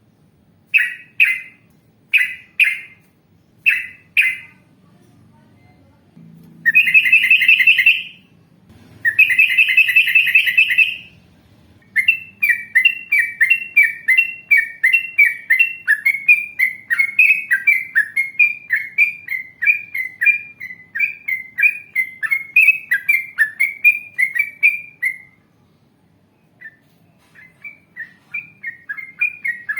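Yellow-vented bulbul (trucukan) singing. It gives a few short paired chirps, then two long rattling trills of one to two seconds each, then a fast run of repeated chirps, several a second, lasting about thirteen seconds. The run breaks off briefly near the end and starts again.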